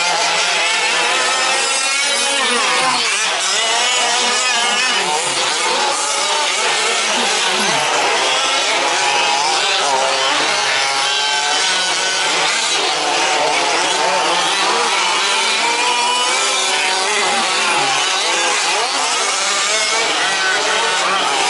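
Several 1/5-scale 4WD remote-control trucks racing, their small two-stroke petrol engines buzzing together and revving up and down continually as the throttles open and close.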